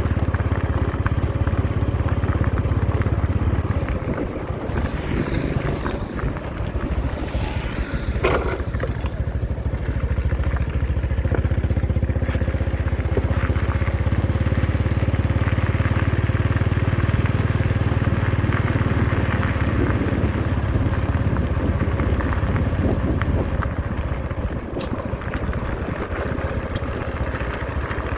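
Heavy diesel road-construction machinery running steadily with a deep engine rumble, with one sharp clank about eight seconds in.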